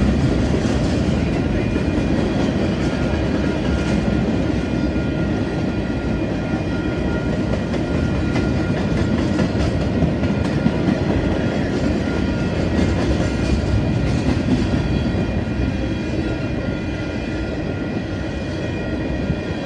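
Freight train cars rolling steadily past: a continuous rumble of steel wheels on the rails with clickety-clack over the rail joints, and faint steady high tones above it.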